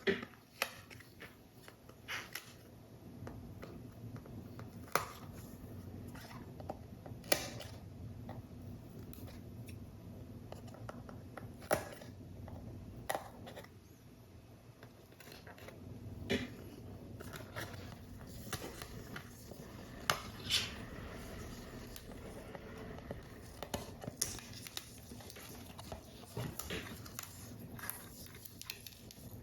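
Paper model crafting sounds: irregular sharp clicks and taps of tools and paper pieces being handled, every second or two, over a faint steady low hum.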